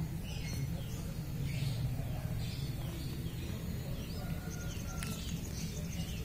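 Faint, scattered chirps of small birds in the background over a low steady hum.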